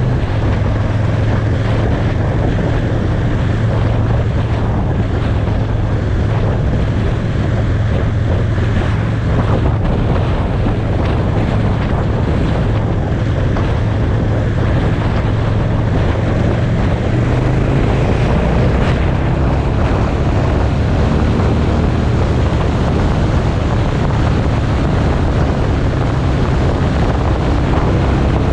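Motorcycle riding at speed: a steady engine drone under heavy wind noise on the microphone. The engine note shifts a little past halfway.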